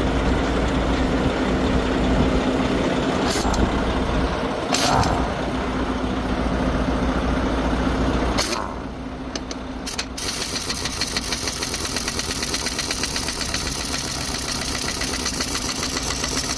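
Semi trucks' engines idling with a few knocks, then from about ten seconds in a 1-inch pneumatic impact wrench hammering rapidly and steadily, driven by air from the trucks, as it breaks loose a semi wheel's lug nuts.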